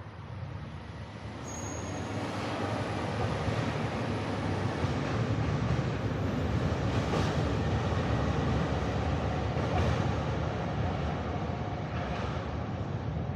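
A train running past on the rails, its sound building over the first few seconds and then holding steady.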